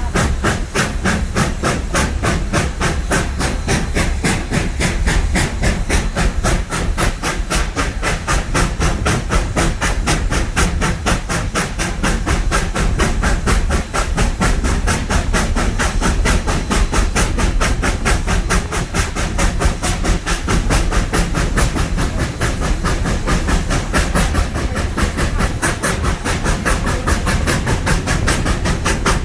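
1920 Baldwin steam locomotive working, its exhaust chuffing in a rapid, even beat over a steady steam hiss.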